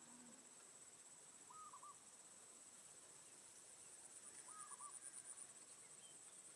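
Faint insect chorus holding one steady high-pitched buzz that turns into a quick pulsing trill in the second half, with a short warbled bird call twice, about three seconds apart.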